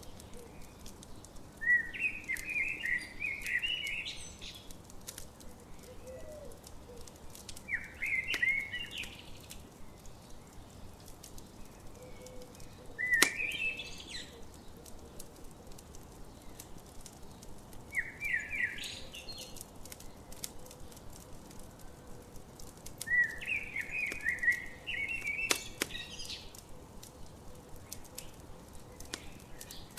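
A songbird singing a short, quick phrase of chirped notes about every five seconds, over the steady faint crackle and pops of a campfire.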